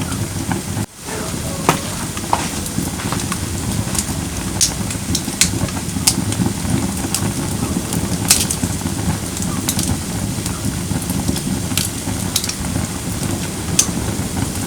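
Firewood burning in a fire pit: a steady hiss with scattered sharp crackles and pops. The sound briefly drops out about a second in.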